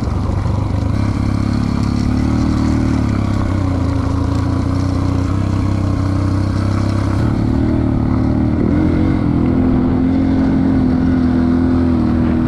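Dirt bike engine running steadily under way, its pitch wavering a little.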